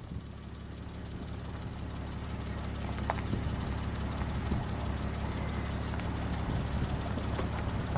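Car engine running with a low, steady hum that slowly gets louder, with a faint click about three seconds in.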